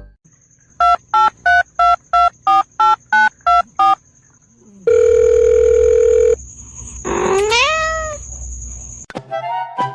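About ten quick telephone keypad beeps, then a steady dial tone for about a second and a half. Near the end comes a single cat meow that rises and then falls in pitch.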